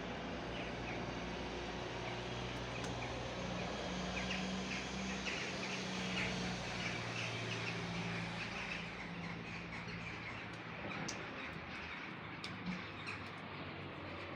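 Small birds chirping repeatedly over a steady low hum of outdoor background noise; the hum fades about two-thirds of the way through, and a few light clicks follow near the end.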